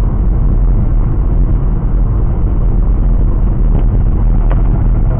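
Steady low rumble of road and engine noise inside a moving car, picked up by a dashcam microphone, with two faint clicks in the second half.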